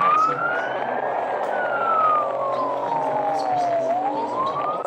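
Emergency vehicle siren on a wail, its pitch rising and falling slowly, one full sweep about every three seconds.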